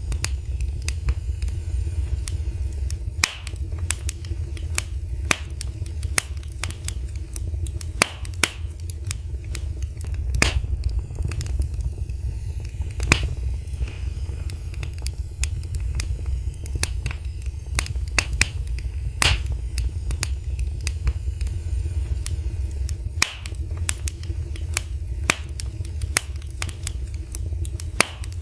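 Wood fire crackling in a fireplace: sharp pops and snaps at irregular intervals over a steady low rumble of the flames.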